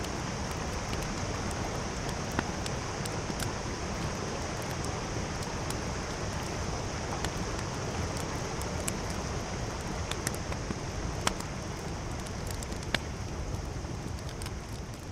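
Steady rush of a mountain stream, with a campfire's sharp crackles and pops scattered through it.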